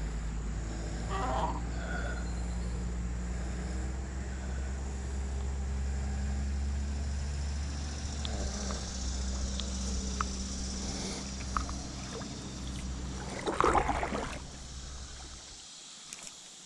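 A small boat motor runs with a steady low hum, then cuts off abruptly near the end. A few light clicks and a short, louder burst of knocking and rustling come shortly before it stops.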